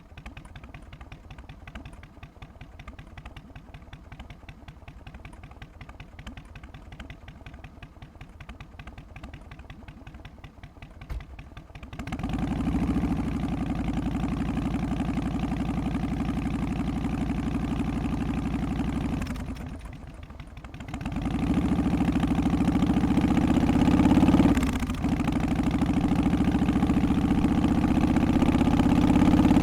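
Harley-Davidson FXST Softail's Twin Cam 88 V-twin idling with its loping three-beat rhythm. It is quieter at first, then much louder from about twelve seconds in, with a brief drop around twenty seconds.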